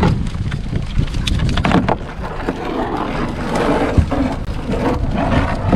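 Wind rumbling on the microphone, with a few sharp knocks and clatter from handling gear on the boat, about a second in, near two seconds and around four seconds in.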